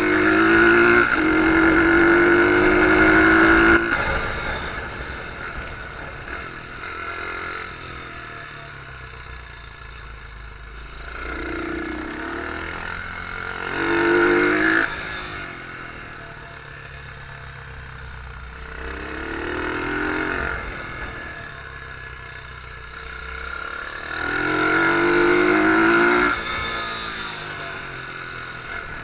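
Beta R150 pit bike engine heard on board, revs rising and falling: it runs hard for the first few seconds, then drops back, and surges twice more, briefly about halfway through and again near the end.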